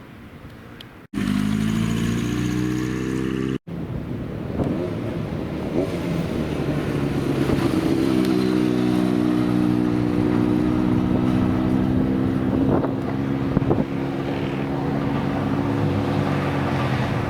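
Older motorcycle engines in edited clips. After a quiet first second, one engine revs up briefly until a sudden cut, then another engine rises in revs and holds them steady.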